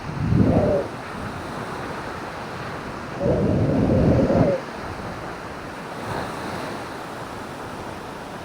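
Surf washing steadily on a beach, with wind buffeting the microphone in two gusts: a short one about half a second in and a longer one at about three seconds.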